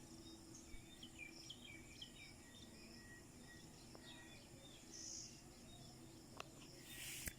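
Faint, short bird chirps in quick series over a low steady hum, with a brief hiss near the end.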